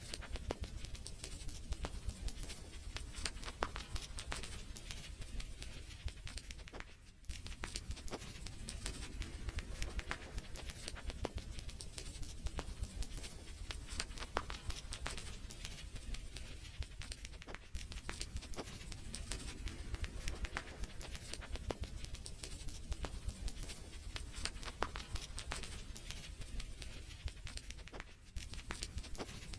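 Wood fire crackling in a fireplace: a continuous run of sharp pops and snaps over a low rumble, briefly quieter about seven seconds in and again near the end.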